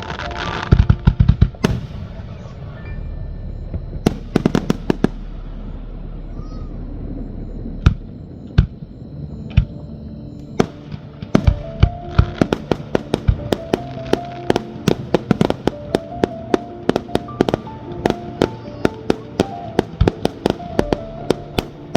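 Fireworks going off: scattered sharp bangs at first, then a rapid string of bangs from about halfway, with music playing underneath.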